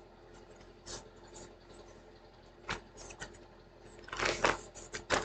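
A few light clicks, then a denser run of short rustling and clicking noises about four seconds in.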